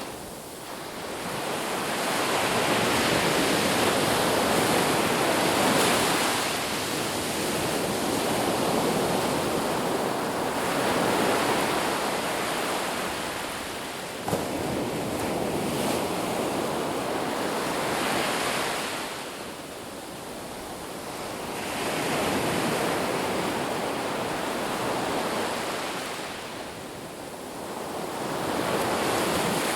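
Sea waves breaking and washing up a shore, the surf swelling and ebbing every several seconds.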